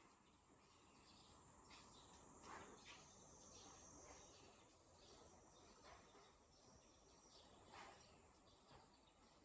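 Faint summer nature ambience: a steady, high insect trill with scattered short bird chirps over it, a couple of them a little louder about two and a half and eight seconds in.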